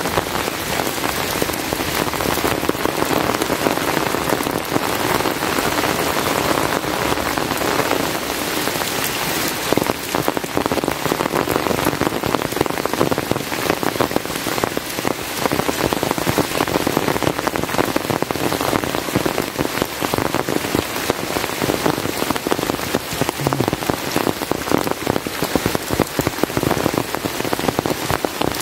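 Heavy rain falling steadily, a dense, unbroken patter of drops hitting surfaces.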